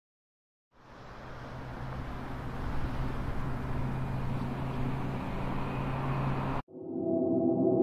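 A steady noisy rumble with a low hum fades in about a second in and grows louder. Near the end it cuts off suddenly and a gong-like ringing tone begins.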